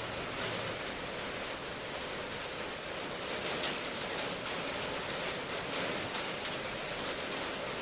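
Steady rain, falling evenly with a dense patter of drops, used as an ambience track.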